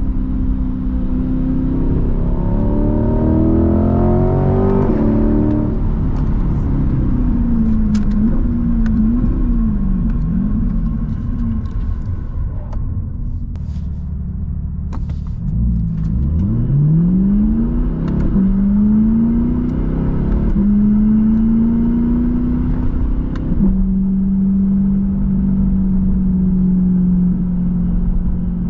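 Chevrolet Corvette C8's V8 engine pulling through the gears: its pitch climbs and drops back at each upshift, wavers up and down with the throttle, climbs steeply again about halfway in, then settles into a steady cruise for the last few seconds.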